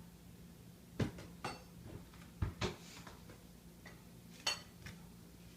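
Kitchen dishes and a serving utensil clinking and knocking as steamed rice is served: about five separate short knocks, one near the end ringing briefly.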